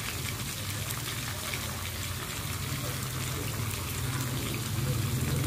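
Pork belly and aromatics sizzling and crackling in a hot wok as oyster sauce is poured in, over a steady low hum.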